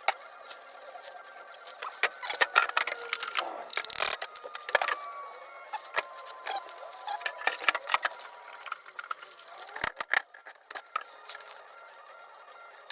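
Irregular sharp clicks and clinks of small hard objects being handled, coming in quick clusters, with a faint falling tone behind them.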